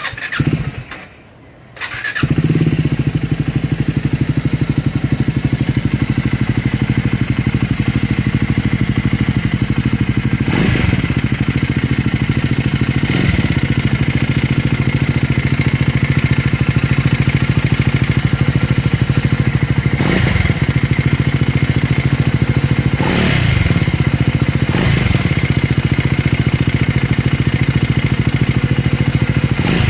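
Triumph 400 single-cylinder motorcycle engine being started: a brief burst right at the start, then it catches about two seconds in and settles into a steady idle, with a few short sharper sounds over it. The owner presents the engine as making an abnormal noise.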